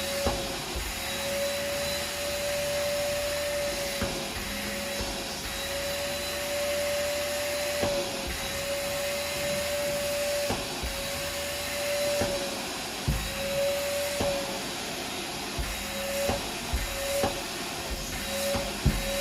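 Vacuum cleaner running steadily, its motor whine wavering and dipping slightly in pitch as the suction changes, with scattered sharp clicks of debris being sucked up that come more often over the last few seconds.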